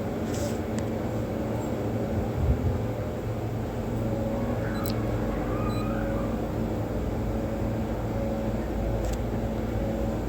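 A steady, low engine hum like an idling motor, with a dull thump about two and a half seconds in and a few faint clicks.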